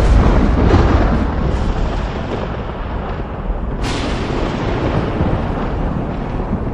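Thunder rumbling loudly and deeply, strongest at the start, with a sharp crack about four seconds in.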